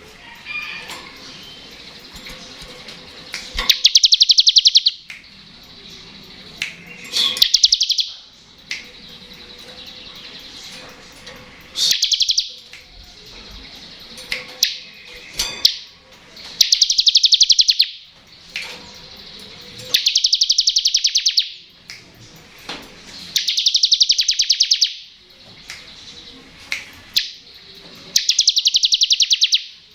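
Bar-winged prinia (ciblek) singing its 'ngebren' song: roughly seven loud, rapid, rattling trills, each lasting about a second, with softer chirps between them.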